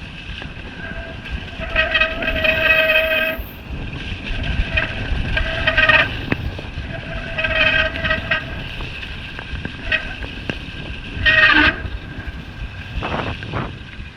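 Mountain-bike disc brake squealing in several bursts as the brake is applied, a high screech each time. The pads are worn out, and the rider thinks the pad spring is rubbing on the pad.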